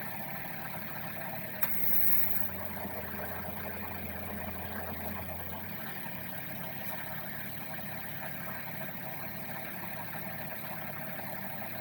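Steady hum of a Suzuki Wagon R's small three-cylinder engine idling with the climate control blowing to defrost a frosted windscreen. A sharp click with a short hiss comes about two seconds in, and a deeper low hum runs alongside from then until about six seconds in.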